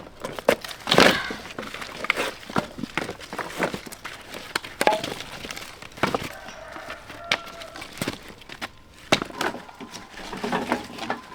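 A run of irregular snaps, cracks and rustles at close range, the loudest about a second in.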